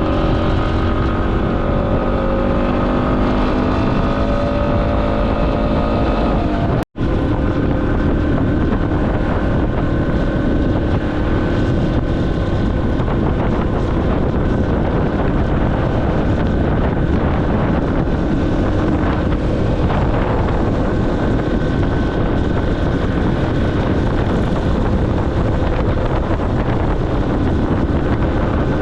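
Yamaha XT250's single-cylinder four-stroke engine running at road speed under heavy wind rush on the microphone. The sound drops out for an instant about seven seconds in.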